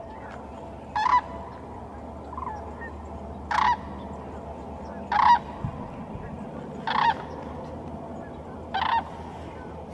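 Sandhill cranes calling: five loud, short calls spaced about one and a half to two seconds apart, with a fainter call between the first two.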